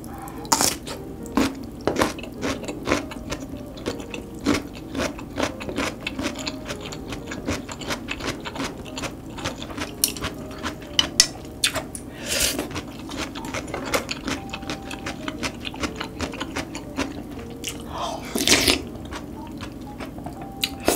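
Close-miked chewing of crispy fried loach: a dense run of small crunches and wet mouth clicks, with two longer noisy slurps, about halfway through and again near the end.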